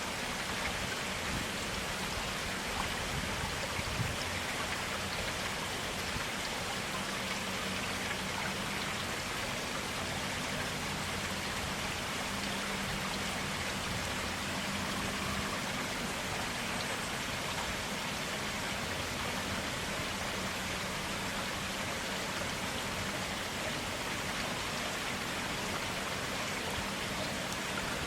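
A forest stream running steadily, an even rush of clear water.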